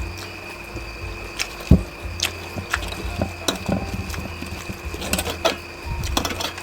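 Close-miked eating of instant noodles: an irregular string of wet smacks and clicks from chewing and utensils, over a steady faint high tone.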